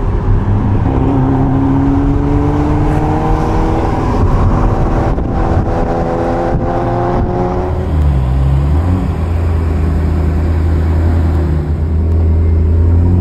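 Ferrari F40's twin-turbo V8 accelerating, its pitch climbing steadily for about eight seconds. Then a deeper, steady drone takes over, with a brief dip in pitch about a second after the change.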